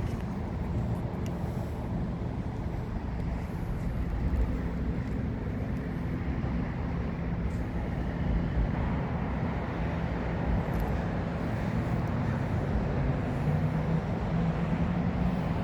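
Steady low rumble of a car driving, with engine hum and road noise.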